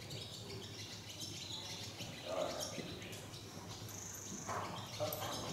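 Small birds chirping and twittering faintly, with two short, louder mid-pitched sounds, one about two seconds in and one near the end.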